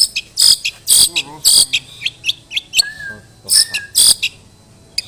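Long-tailed shrike singing: loud, short, scratchy high notes about every half second, with quick chirps between them and two brief lower whistles in the middle. The song goes quieter over the last second.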